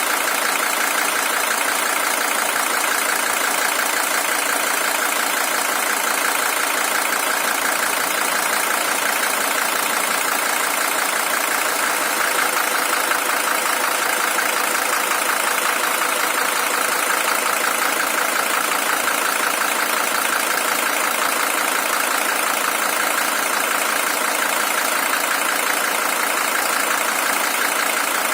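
Mercedes-Benz OM617 five-cylinder diesel engine in a W123 300TD idling steadily. It is the original engine, at 620,000 km.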